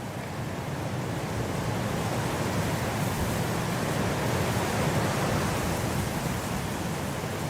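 Blizzard wind blowing in a steady rush, swelling into a gust over the first few seconds and easing slightly near the end.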